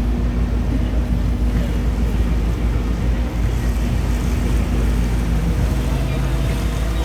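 Venetian water taxi's inboard engine running steadily underway, a low drone under the rush of water and wind on the microphone.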